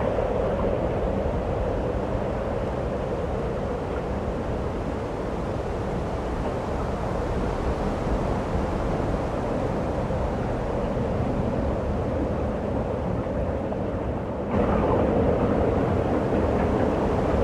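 Steady rushing of snowstorm wind, which jumps suddenly louder about fourteen and a half seconds in.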